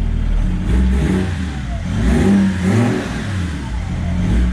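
BMW M57 straight-six turbodiesel, newly swapped into a Toyota Land Cruiser Troopy, running and being revved, its pitch rising and falling several times.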